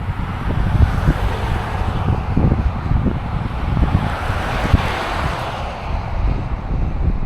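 Wind buffeting the microphone in uneven gusts. A broad rushing hiss swells over a few seconds and then fades.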